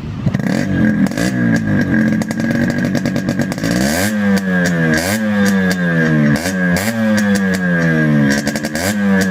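Yamaha RX100's two-stroke single-cylinder engine running through a modified exhaust: steady at first, then blipped repeatedly from about four seconds in, roughly once a second, each rev rising sharply and sinking back.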